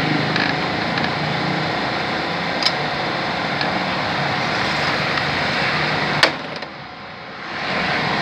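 Steady machine hum, like a small engine running, with a light click a few seconds in and a sharp knock about six seconds in; the hum then dips for a second or so and comes back.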